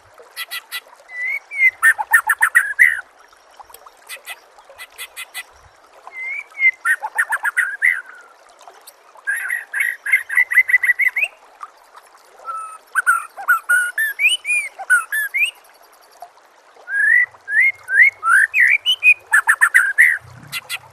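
White-rumped shama (murai batu) singing: about six bursts of rapid whistled phrases and fast clicking trills, with short pauses between them, over a faint hiss.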